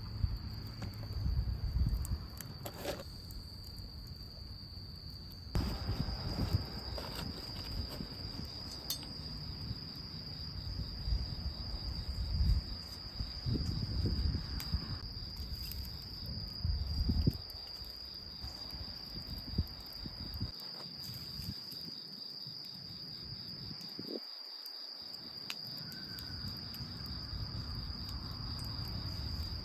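Crickets singing in a steady, continuous high-pitched chorus. Intermittent low rumbles and knocks come in the first half.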